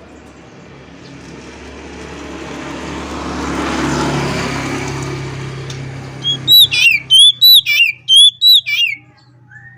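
A passing vehicle's noise swells and fades over the first six seconds. Then an oriental magpie-robin sings a quick run of about eight loud, sliding whistled notes, and a steady held whistle begins just before the end.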